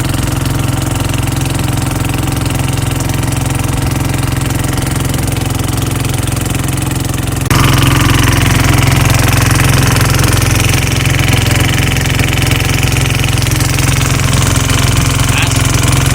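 A small engine running steadily with a low hum; it gets abruptly louder and brighter about halfway through.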